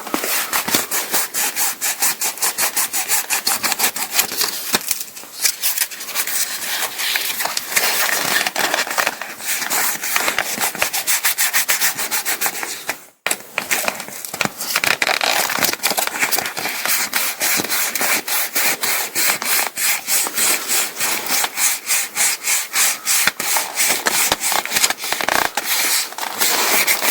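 Ripstop nylon repair patch being rubbed firmly down onto paraglider sailcloth with the hand, in fast repeated rasping strokes, pressing the adhesive on. There is one short gap about halfway through.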